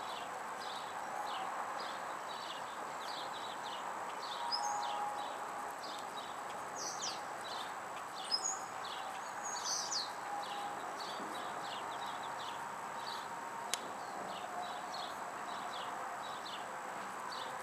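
Outdoor backyard ambience: a steady series of short high chirps, about two to three a second, with a few birds calling now and then through the middle. One sharp crack, most likely from the burning wood, comes near the end.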